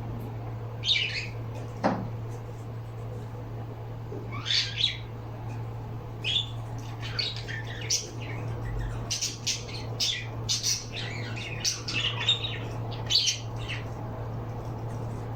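Pet birds chirping and squawking in short, irregular calls that grow busier in the second half, over a steady low hum.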